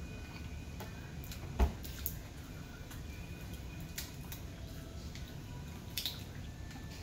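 Close-miked eating sounds: chewing with small wet mouth clicks, and a single low thump about a second and a half in.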